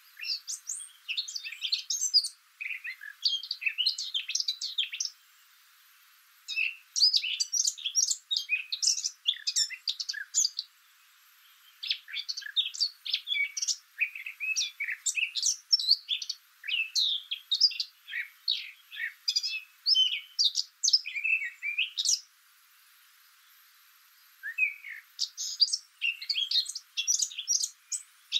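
Songbirds singing: fast runs of high chirps and trills in phrases several seconds long, with short pauses between them, about five seconds in, near eleven seconds and around twenty-three seconds.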